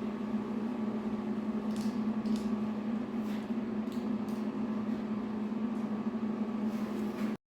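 Steady low hum in a small room, with a few faint, brief hisses or clicks over it. It cuts off abruptly near the end.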